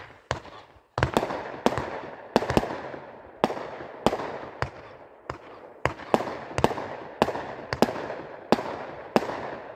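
Raccoon Fireworks 'Football Maniac' multi-shot firework cake firing shot after shot. There is a sharp bang roughly every two-thirds of a second, and each one trails off into a fading crackle.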